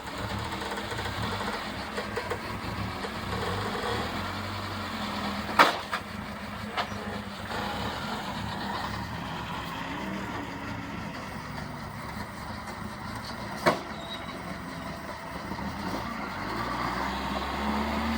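Off-road vehicle engine running at low speed, working slowly over rocks, its pitch shifting up and down and getting louder near the end. Two sharp knocks come about eight seconds apart, the first about six seconds in.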